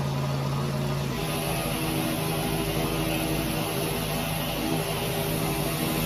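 Engine-driven pressure washer running steadily, with the hiss of its water spray coming in about a second in and holding.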